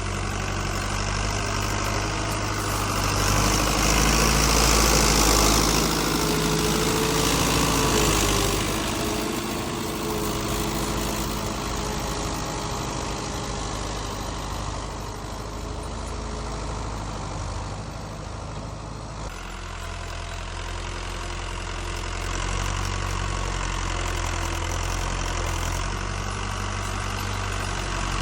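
Fiat 640 tractor's diesel engine running steadily, louder for a few seconds early on and then settling to a lower, even run.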